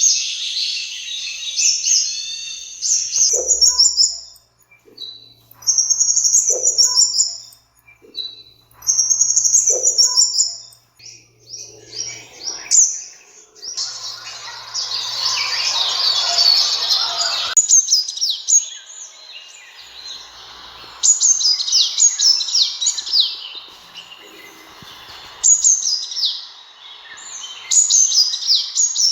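Sunbird song: rapid, high-pitched twittering phrases repeated in short bursts, with a denser, noisier stretch of about four seconds midway.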